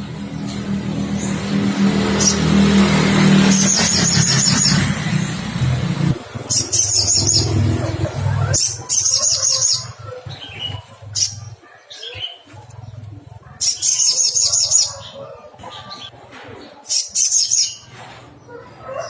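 A sogon sunbird singing in short bursts of fast, high-pitched chattering trills. For the first half a loud low engine hum, like a passing vehicle, runs underneath and cuts off about eight and a half seconds in.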